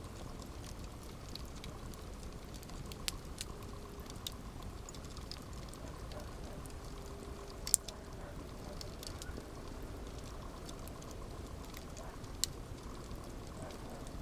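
Campfire burning with a steady low hiss and rumble, wood crackling in scattered small clicks and three louder pops.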